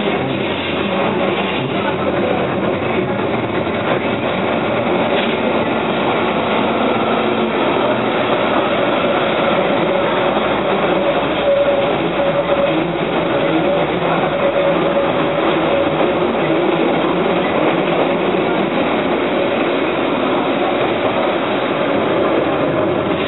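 Keihan Ishiyama Sakamoto Line electric train running steadily, heard from inside the car at the front: continuous wheel-on-rail running noise with a steady hum.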